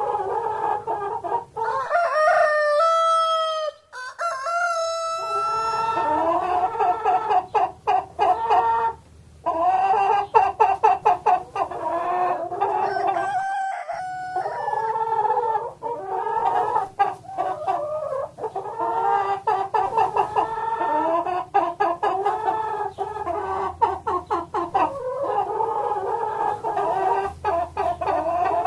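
Chickens clucking continuously in quick, overlapping calls, with a longer drawn-out call, likely a rooster crowing, about two seconds in.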